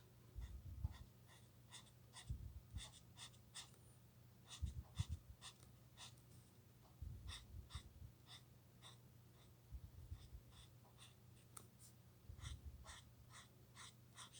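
Faint ticking and scratching of an alcohol marker's tip being worked across paper, in short irregular strokes, with a few soft low bumps.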